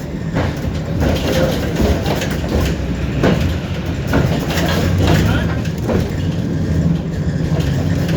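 Tram heard from inside the passenger car while running along the rails: a steady low motor and running hum, with irregular knocks and rattles from the wheels and car body.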